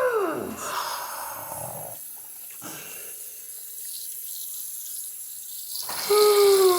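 Water running steadily, like a tap, for a few seconds, with a click just before it. A falling, wailing cry fades at the start and another starts near the end.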